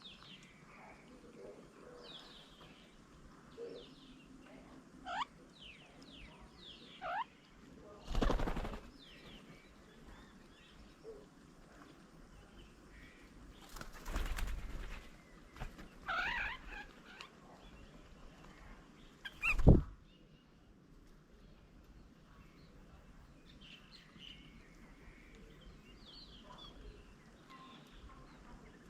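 Small birds chirping and calling around a garden bird table, with a few brief bursts of wing flapping as birds come and go. The loudest sound is a short, sharp thump about two-thirds of the way through.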